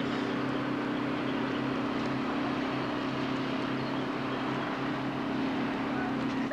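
Boat engine running at a steady pitch, a low hum over a rushing noise, cutting off suddenly at the end.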